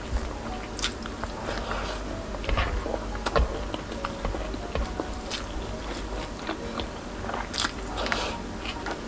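Close-miked chewing: wet smacking and clicking mouth sounds of someone eating rice with a creamy coconut-milk pork stew.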